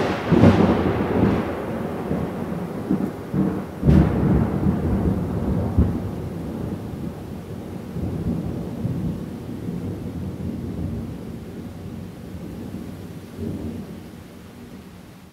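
A sudden loud crash, then a second sharp crack about four seconds in, each followed by a long low rumble that slowly fades and cuts off suddenly at the end.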